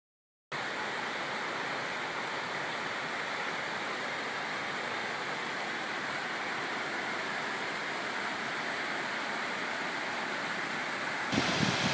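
Steady rushing noise like flowing water, starting suddenly about half a second in. Near the end a louder, fluttering rumble of wind on the microphone joins it.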